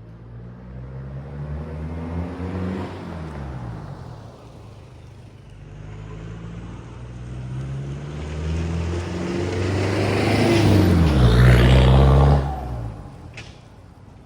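Toyota Prado 95's 1KZ 3.0 L turbo-diesel through a 3-inch stainless turbo-back exhaust, accelerating with a shift about three seconds in, then pulling up through the revs again and growing louder. Near the end the pitch drops and the sound falls away quickly, as if the vehicle is passing.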